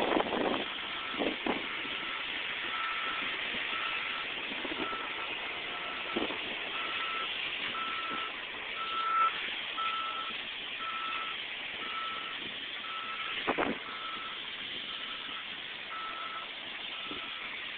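Backup alarm of a front-end loader beeping steadily, about one beep a second, over the machine's running engine, with a few short knocks.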